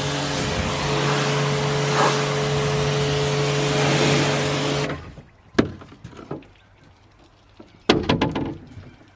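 Pressure washer running and spraying water: a steady hiss over a motor hum that cuts off suddenly about five seconds in. A few sharp knocks and clatters follow, the loudest near the end.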